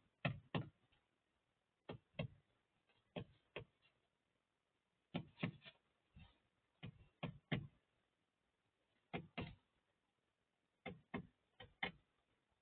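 Birds pecking at food: sharp beak taps in short bursts of two to four, repeating every couple of seconds.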